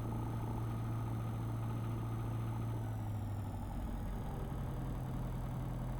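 A light aircraft's piston engine runs steadily on the ground, its pitch easing down slightly about halfway through.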